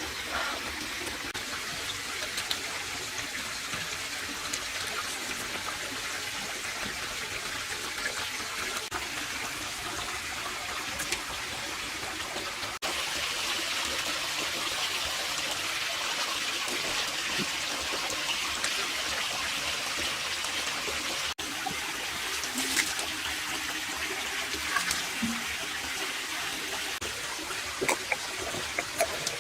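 Steady rush and splash of water falling from an artificial waterfall, a little louder from about 13 seconds in.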